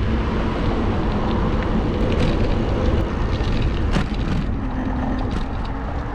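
Wind buffeting the microphone of a bike-mounted action camera while riding an e-bike, with rumbling road and tyre noise and a few light clicks.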